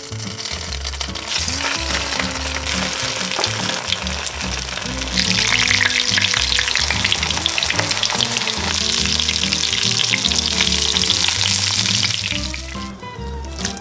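Rice-paper spring rolls (cha gio) sizzling and crackling in shallow oil in a frying pan. The sizzle starts about a second in, grows louder about five seconds in and fades out near the end.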